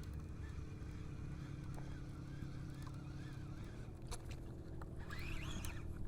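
Steady low drone of motorboat engines out on the lake, with wind on the microphone.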